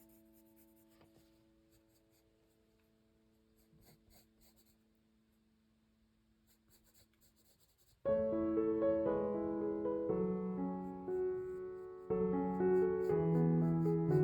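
Faint pencil strokes scratching on sketchbook paper while a piano chord dies away; about eight seconds in, gentle piano music starts and carries on, much louder than the pencil.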